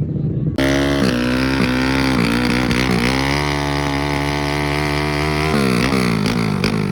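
A drag-racing motorcycle engine accelerating hard, its pitch dipping briefly at a few quick gear changes and then climbing steadily before dropping sharply near the end.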